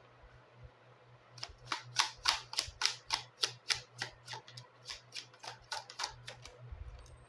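Tarot cards being handled on a table, a rapid run of about twenty crisp clicks, roughly four a second, stopping shortly before the end, over a faint steady hum.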